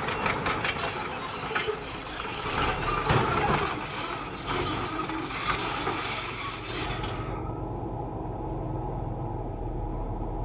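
Bulldozer's diesel engine running under a dense crunching and clattering of stone being pushed, which stops about seven seconds in, leaving the engine running steadily.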